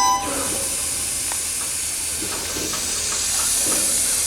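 Freight train's air brakes hissing steadily just after the train has come to a stop, as compressed air vents. The last of the wheel and brake squeal cuts off right at the start, and the hiss swells a little about three seconds in.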